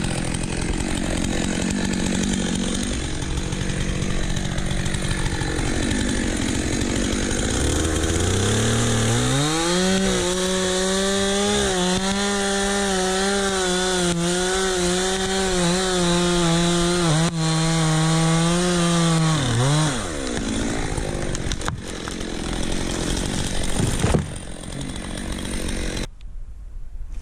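Two-stroke chainsaw running unevenly at part throttle, then revved up about eight seconds in and held at full throttle for about ten seconds while sawing wood, before dropping back down. The sound cuts off abruptly near the end.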